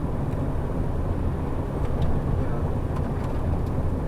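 Steady low drone of a shuttle bus driving, engine and road noise heard inside the cabin, with a few faint ticks and rattles.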